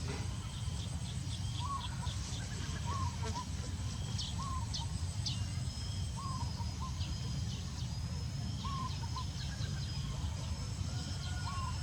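Birds calling outdoors: a short chirp repeated about every second and a half, with scattered higher chirps over a steady low rumble.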